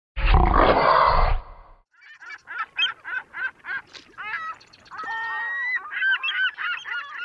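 A loud rushing burst lasting about a second and a half, then a rapid series of short honking bird calls, goose-like, that run on and stop abruptly.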